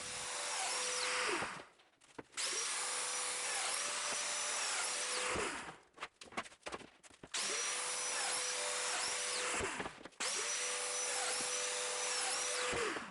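Domino joiner's motor running in four separate runs of about two to three seconds each, cutting mortises into plywood, its pitch steady while running and falling away as it switches off. A few short clicks sound in the gap between the second and third runs.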